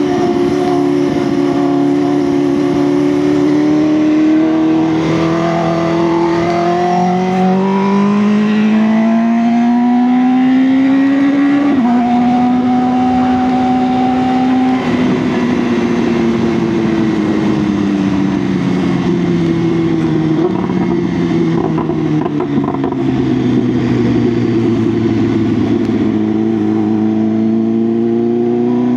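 BMW S1000R's 999 cc inline-four engine under way: it holds steady, then revs climb for several seconds, drop a little at a gear change near the middle, and hold. The revs then fall away slowly as it slows, and climb again near the end.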